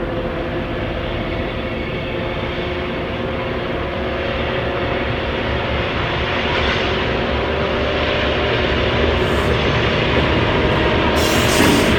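Diesel locomotive engine sound from an HO-scale model locomotive running with its train. It runs steadily and grows gradually louder from about halfway through, with a short burst of hiss near the end.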